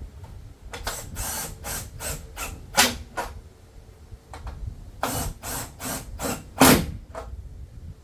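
A tool driving in the tail light assembly's screws in two runs of short, noisy bursts, about two or three a second, with each run ending in a louder snap as the screw seats.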